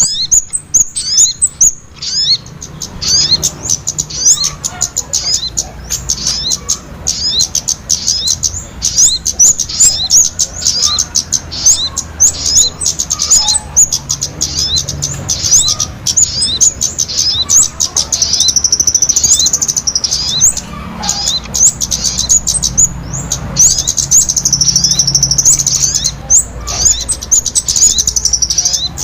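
Small songbirds chirping rapidly and continuously, a dense stream of short high-pitched calls broken by longer trills: a bird-luring call recording used to draw small birds in.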